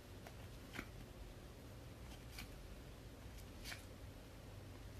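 Trading cards being flipped through by hand: three soft, short card flicks over a faint low hum.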